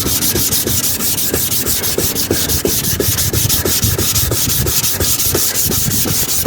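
240-grit sandpaper rubbed by hand over a plastic car headlight lens in quick back-and-forth strokes, about six a second. This is the coarse first stage that takes the hazed, scratched top layer off.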